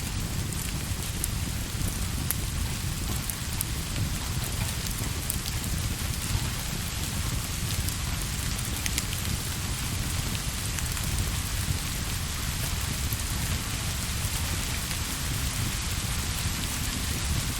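Steady rain on a surface, with a continuous low rumble beneath it and scattered small sharp ticks.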